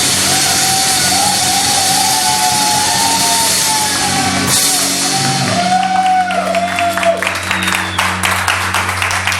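Live rock band ending a song: the loud full-band wash of distorted guitars and cymbals drops away about halfway through, leaving a held bass and guitar chord ringing. Through the second half the crowd claps and whoops.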